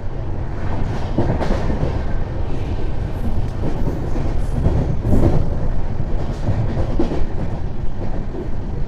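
Passenger train coach running at speed, heard from the open doorway: a steady rumble of wheels on the rails with a few louder clacks over rail joints.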